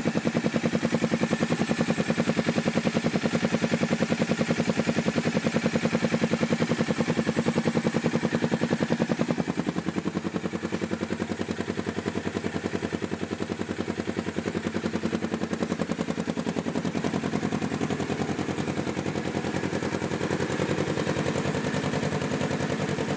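2012 Polaris RZR XP 900's parallel-twin engine running steadily through a dual Looney Tuned aftermarket exhaust, a fast, even train of exhaust pulses. The sound eases a little about ten seconds in and then holds steady.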